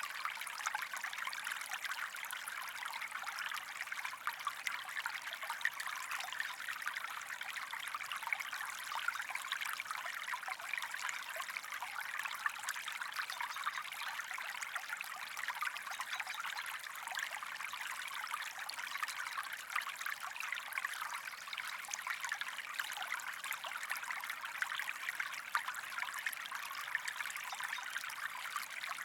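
Water stream trickling steadily, an even, unbroken flow of fine splashing.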